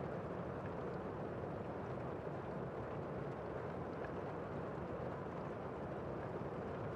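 Heavy rain shower heard from indoors: a steady, muffled rush with little high hiss.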